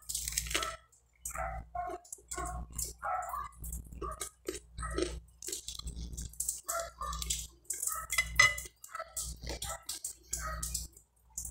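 Close-miked chewing and mouth sounds of eating a bread roll with mortadella, in short irregular bursts with small clicks.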